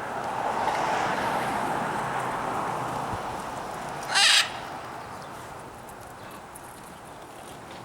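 A caged exotic bird gives one loud, harsh squawk about four seconds in, over a steady background din that slowly fades.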